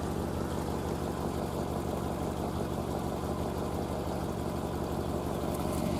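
Vehicle engine idling steadily, with no change in speed.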